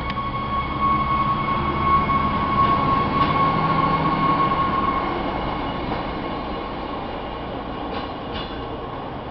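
A Stadler GTW diesel multiple unit light-rail train passes close by and pulls away, its diesel power unit and wheels rumbling. A steady high whine fades out about halfway through, and the sound dies down as the train recedes, with a couple of clicks near the end.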